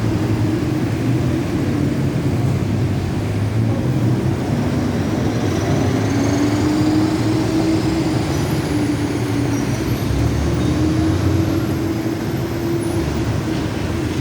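Passenger train rolling through a level crossing: a steady rumble, with faint high wavering squeals from about five seconds in.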